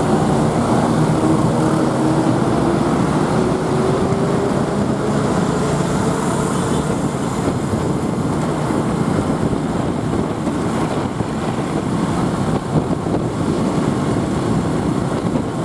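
Motorbike taxi riding through city traffic: engine and road noise heard from the pillion seat. An engine note climbs steadily over the first several seconds as the bike picks up speed.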